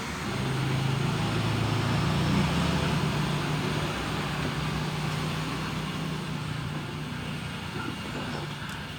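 A low, steady engine drone, as of a motor vehicle, that swells in the first second or two and then slowly fades.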